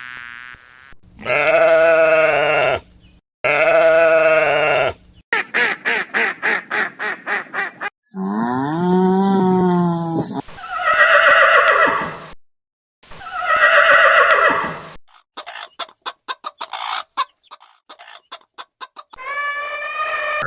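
A run of short farm-animal calls cut one after another: several loud, drawn-out pitched calls, one rising and falling, and two stretches of quick repeated short sounds in between.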